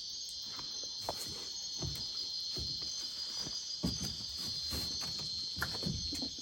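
Dense chorus of tropical night insects, a steady high shrill buzz, with a few soft low knocks scattered through it.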